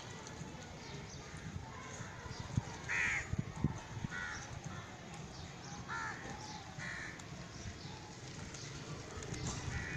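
Birds calling: short, harsh calls, four or five spread over several seconds, over steady background noise, with a few dull low thumps near the first call.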